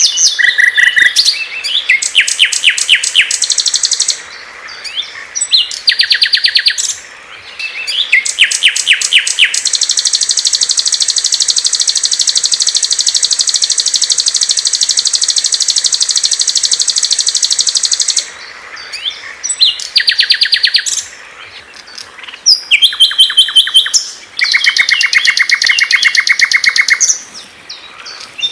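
Small songbirds singing loud, rapid high-pitched trills and chatter in short bursts with brief gaps, including one long unbroken high trill lasting about eight seconds in the middle.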